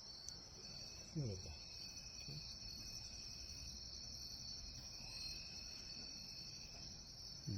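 A night chorus of crickets and other insects: a steady, high, shrill trilling that never breaks, with a fainter rhythmic pulsing above it. About a second in there is a short low voice sound, like a sigh.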